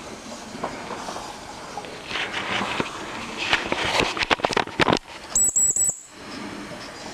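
Mamod TE1A miniature steam tractor being worked: a run of rapid metallic clicks and knocks, then a brief high-pitched warbling squeal about five seconds in.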